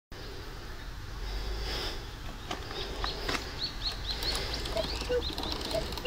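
Birds calling: a run of short, high chirps, several a second, starting about halfway, with a few sharp clicks among them. Near the end, a lower two-note call repeats about once a second, over a steady low rumble.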